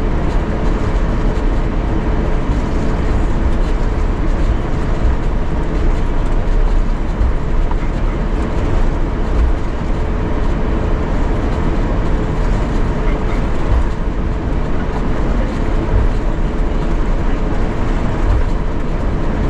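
Steady cabin noise inside an Airbus A350-900 on the ground before takeoff: a continuous low rumble from its Rolls-Royce Trent XWB engines at low thrust, with a faint steady hum through it.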